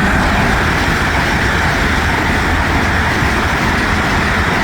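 Train passing close by at speed: a loud, steady rush of wheel and air noise with a low rumble underneath.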